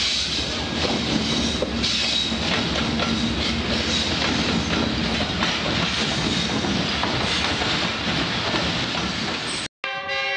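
A diesel-hauled passenger train passing close by: the locomotive's engine hum, then the coaches' wheels clattering steadily over the rail joints. The sound cuts off abruptly near the end.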